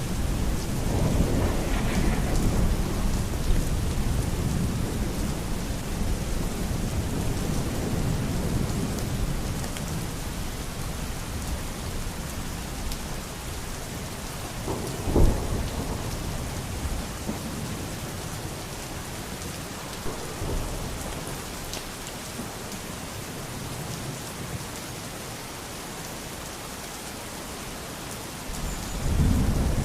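Steady heavy rain with thunder. A low rolling rumble dies away over the first third, a sharp thunderclap comes about halfway, and another rumble builds near the end.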